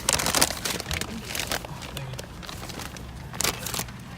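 Paper food bags and wrappers rustling and crinkling as they are handled, in a few short bursts, the loudest right at the start, over the low steady hum of the car.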